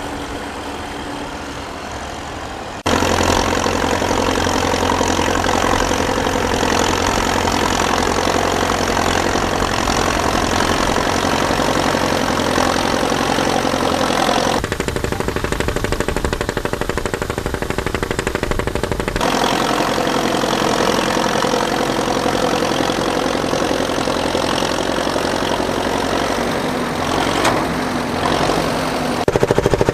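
Massey Ferguson 35X tractor's three-cylinder Perkins diesel engine running while it works a cultivator. The sound jumps abruptly about three seconds in, around fifteen seconds and again around nineteen seconds.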